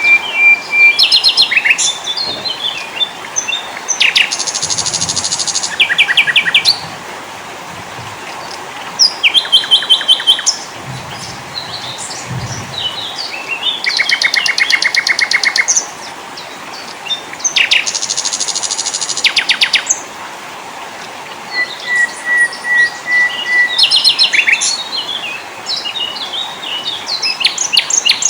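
Several small songbirds singing and calling one after another: fast buzzy trills and rattles alternating with quick high chirps and short whistled notes, over a steady hiss.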